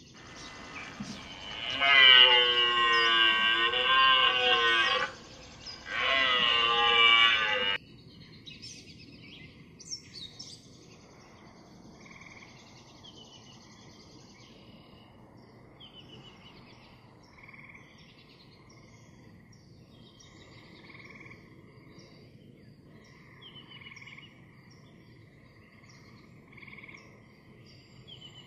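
A deer calls twice: two long, pitched, wavering bleats, the first about three seconds long and the second shorter. Afterwards come faint chirps and croaks that repeat every second or two.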